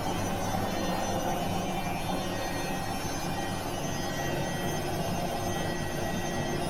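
Washing machine running, a steady motor hum with an even whir over it.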